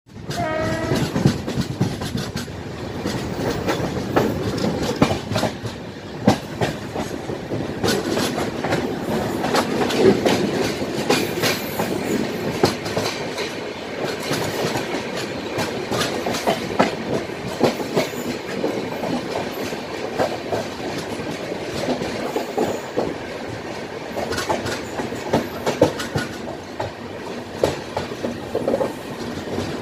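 Passenger train running, heard from an open coach doorway: a steady rumble with the clickety-clack of wheels knocking over rail joints and points.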